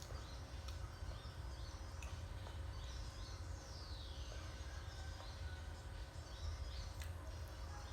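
Birds chirping in short repeated calls, with one long falling whistle about midway, over a steady low rumble.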